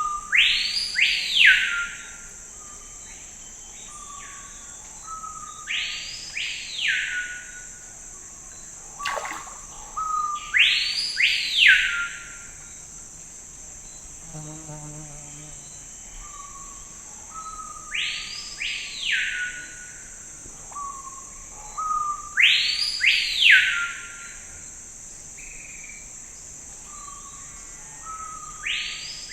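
A songbird repeating the same short song phrase about six times, a few seconds apart, each a couple of short notes followed by a quick sweep up and down in pitch. Behind it runs a steady high-pitched insect drone.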